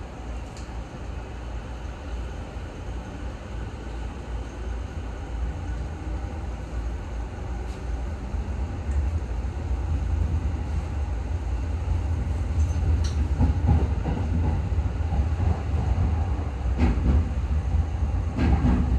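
Running noise of a Tokyo Waterfront Area Rapid Transit 70-000 series electric train pulling away from a station, heard from inside the car: a low rumble that grows steadily louder as it picks up speed, with a few sharp clicks in the second half.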